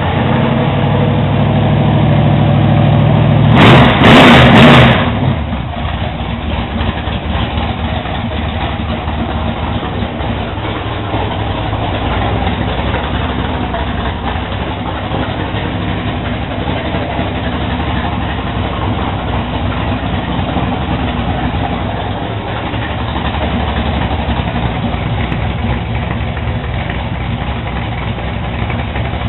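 Blueprint 396 stroker small-block Chevy V8 crate engine running on an engine stand with open headers. It runs louder for the first few seconds, gives a brief loud burst about four seconds in, then settles to a steady idle.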